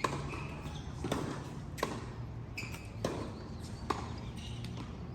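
Sharp knocks repeating about once a second, five in all, with short high squeaks between them over a low background hum.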